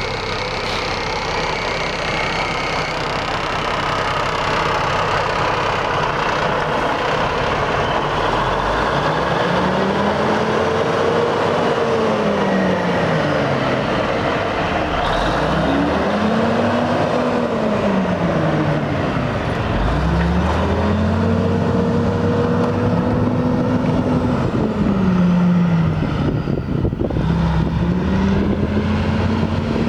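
Diesel engine of a 1979 Ford L9000 tri-axle grain truck running, steady at first, then its speed rising and falling over and over, each swell lasting a few seconds.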